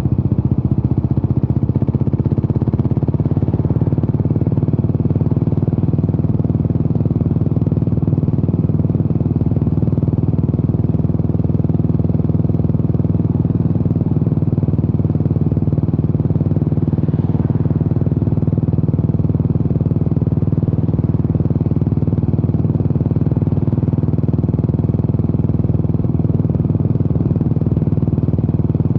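Yamaha SR400's air-cooled single-cylinder four-stroke engine running steadily through a Peyton Place conti-style muffler, a deep, even exhaust beat that holds without revving up or down.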